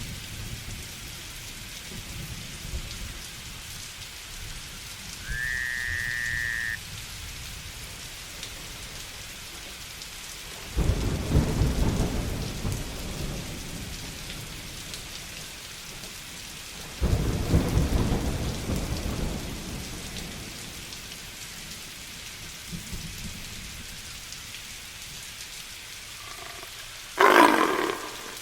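Steady heavy rain with two long rolls of thunder, each a low rumble that swells and then dies away over several seconds. A short whistle-like call rises and then holds briefly a few seconds in, and a loud sudden sound breaks in near the end.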